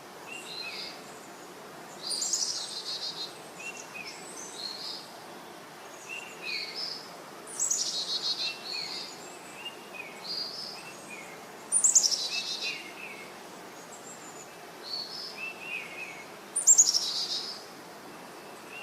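Birds singing: a loud, high, downward-sweeping song phrase repeated about every four to five seconds, with softer short chirps in between.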